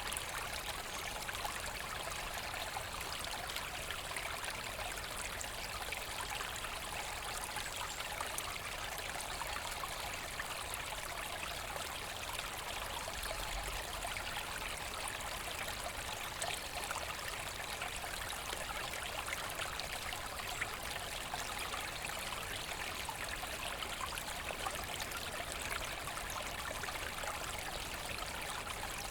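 A forest brook flowing and splashing in a steady, even rush.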